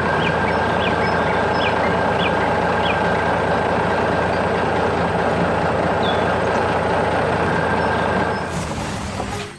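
Steady, loud running noise of a heavy vehicle or construction machine, easing off near the end. Five short high chirps sound over it in the first three seconds.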